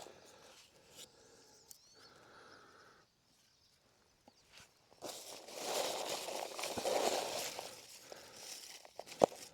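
Rustling and handling noises with scattered sharp clicks, growing into a louder spell of rustling in the second half and ending with a sharp snap.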